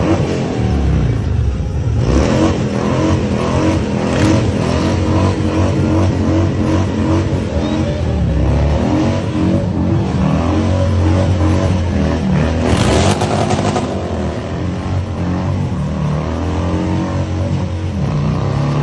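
Motorcycle engine revving hard and repeatedly during a burnout, its pitch rising and falling, with a short loud hiss about two-thirds of the way through.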